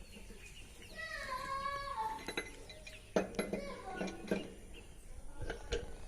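Several sharp clinks and knocks in two clusters, with a brief voice-like call about a second in.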